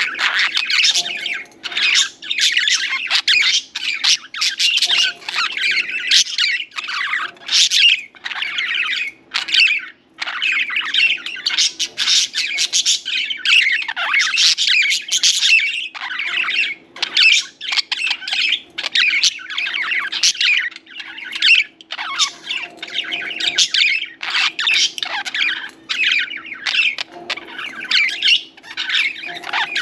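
Several budgerigars chirping and chattering without pause, a dense stream of quick warbles and squawks.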